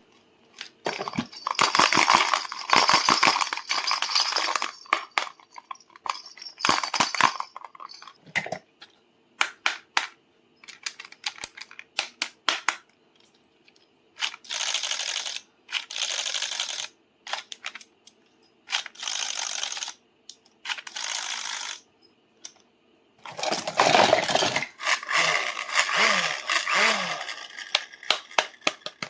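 Toy packaging rustling and crinkling in repeated bursts, with scattered clicks and rattles as toys are handled.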